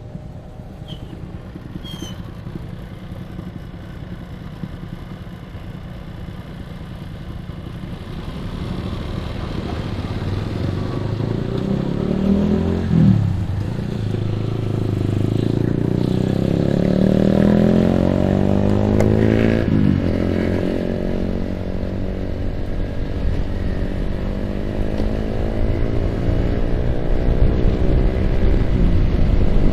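Yamaha R15 single-cylinder four-stroke motorcycle engine pulling away and accelerating, its pitch rising through the gears with two upshifts, about 13 and 20 seconds in, then settling into a steady cruise as wind noise builds.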